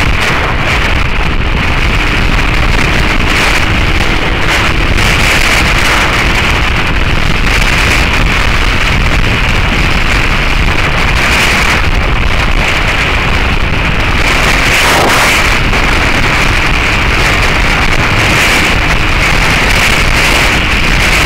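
Heavy wind noise on an action camera's microphone while riding a Suzuki SV650S, with the bike's V-twin engine running on the Beowulf exhaust underneath. The noise is loud and steady.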